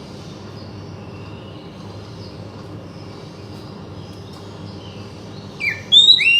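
Oriental magpie-robin song: faint high notes over a steady low rumble, then loud, clear whistled phrases with quick sliding notes starting near the end.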